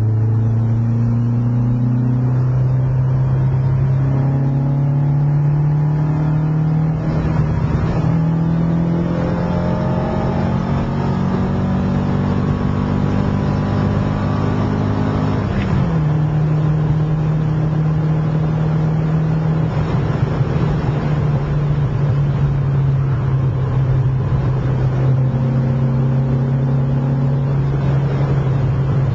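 Ford Sierra Sapphire's Pinto engine on Weber DCOE carburettors, heard from inside the cabin while driving. The engine note climbs slowly for about the first half, drops abruptly, then holds steady.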